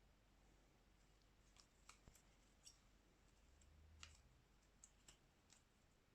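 Near silence broken by faint, scattered small clicks and taps from a phone being handled and worked on during a Xiaomi Redmi 9A screen replacement. The loudest click comes about four seconds in.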